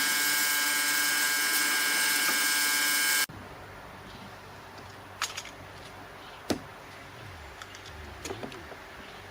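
A power tool running steadily with a high whine, cutting off abruptly about three seconds in, followed by a few light clicks and knocks.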